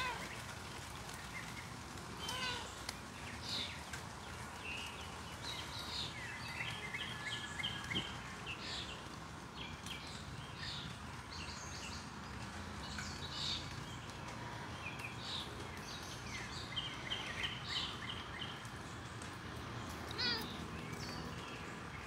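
Several birds chirping and calling, with short trills of quickly repeated notes now and then, over a steady outdoor hiss.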